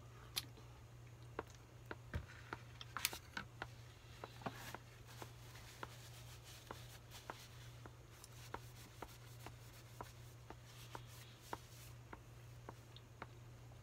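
Close-up eating sounds: a man chewing oden, with soft mouth clicks about two a second and a cluster of louder clicks and rustles around three seconds in, over a steady low hum.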